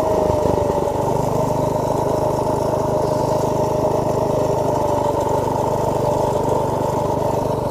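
Motovox minibike's small single-cylinder four-stroke engine running steadily under way, settling after about a second to an even, constant pitch.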